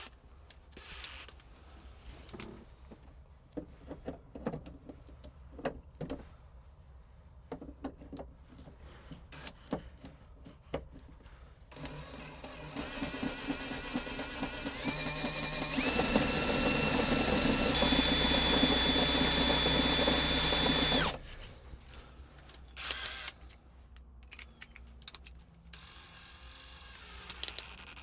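Power drill driving a screw extractor into a stuck bolt: after some tool clicks and taps, the drill runs for about nine seconds, its whine rising in steps, then stops suddenly, followed by more clicking.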